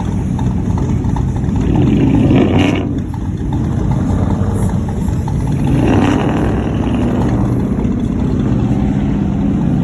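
Vehicle engines running with road noise, swelling louder twice, about two and six seconds in.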